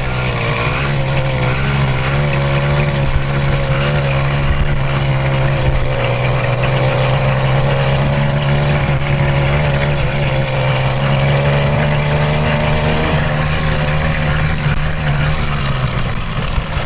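A 66cc two-stroke motorized bicycle engine running steadily while under way, its pitch wavering slightly, easing off near the end.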